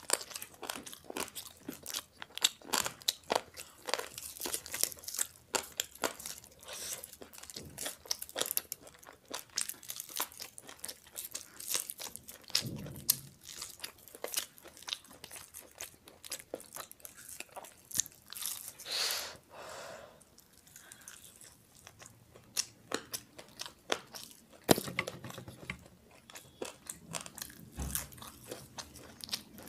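Chewing and crunching of fried chicken lollipops: a steady stream of crisp bites and sharp mouth clicks.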